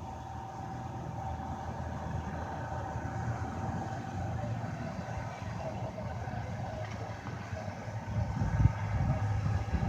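Steady low engine rumble with a constant hum, growing louder with low rumbles on the microphone in the last couple of seconds.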